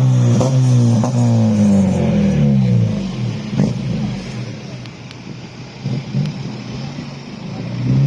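Car engine revving high, its pitch falling away over about three seconds, then a quieter stretch with a few sharp cracks before an engine rises in pitch again near the end.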